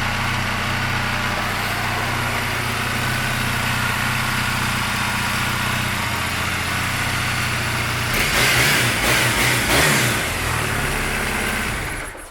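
A 2013 Triumph Bonneville's 865 cc parallel-twin engine idling steadily. It is revved up in a couple of blips about eight seconds in, settles back to idle, and cuts off near the end.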